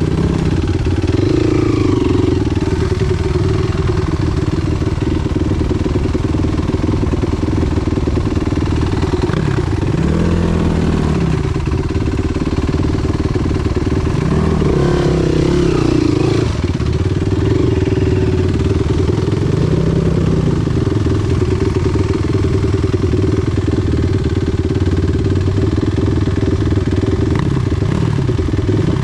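Enduro motorcycle engine running loudly, its pitch rising and falling several times as the throttle is opened and closed while riding.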